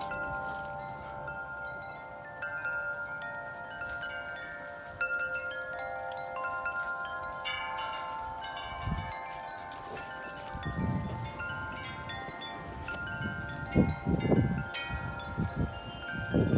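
Wind chimes ringing in gusty wind, many overlapping tones sounding and dying away together. Gusts of wind buffet the microphone several times in the second half, loudest about fourteen seconds in.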